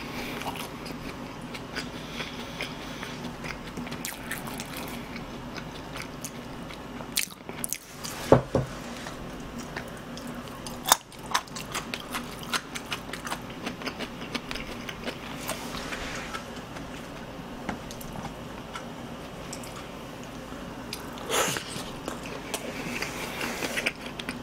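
Close-miked chewing of crispy fried chicken: steady wet chewing with scattered crunches and a couple of louder bites about a third of the way in, over a faint steady hum.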